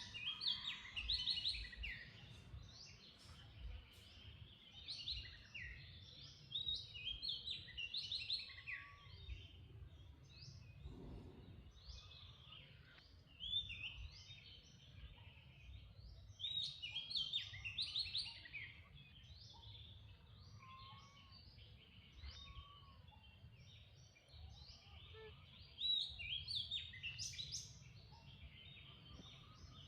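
Wild birds chirping and singing in recurring clusters of quick high notes, over a low steady background rumble.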